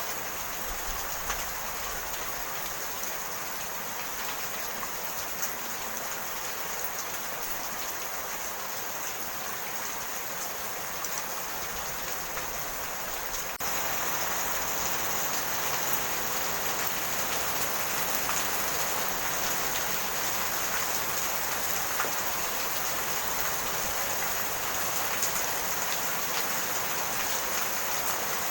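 Steady rain falling, an even hiss with scattered drop ticks. About halfway through it jumps suddenly louder and stays so.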